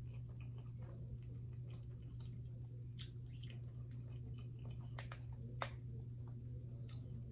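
Close-miked chewing: soft wet mouth clicks and smacks, with a few sharper clicks about three and five seconds in, over a steady low hum.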